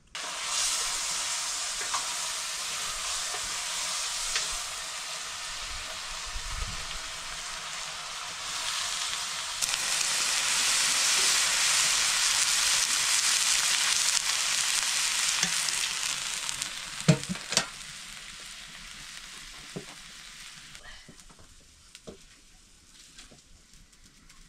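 Food frying in hot oil in a pan. The sizzling starts suddenly, grows louder about ten seconds in and dies away over the last several seconds, with a couple of sharp knocks partway through.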